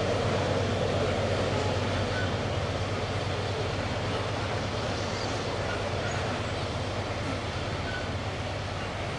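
Loaded iron-ore hopper wagons of a long freight train rolling past, a steady rumble of steel wheels on the rails that eases slowly.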